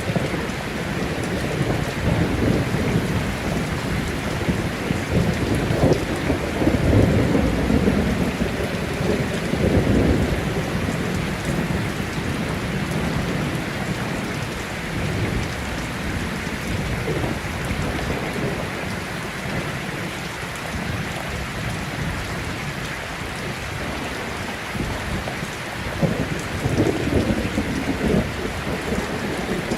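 Heavy rain falling steadily in a thunderstorm, with rolling thunder rumbling up at about six to ten seconds in and again near the end.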